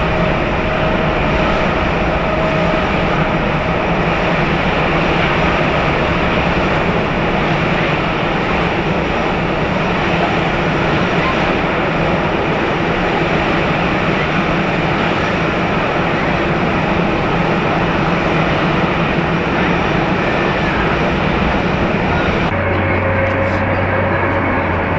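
Jet airliner engines running loud and steady, a dense rushing noise with faint whining tones in it. The sound changes abruptly about 22 seconds in, losing its hiss and gaining a low hum.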